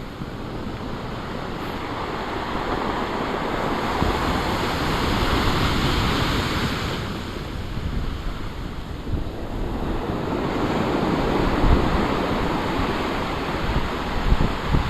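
Big storm waves breaking and surging ashore: a rushing swell that builds to its loudest about six seconds in, eases, then builds again. Wind buffets the microphone, with a few low thumps near the end.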